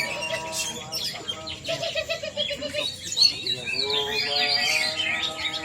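Many caged songbirds singing at once, a dense tangle of overlapping chirps, trills and whistled glides.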